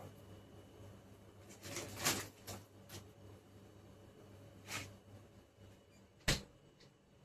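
A few light knocks and clicks from objects being handled, with brief rustling about two seconds in and a single sharp click about six seconds in, over a faint low hum.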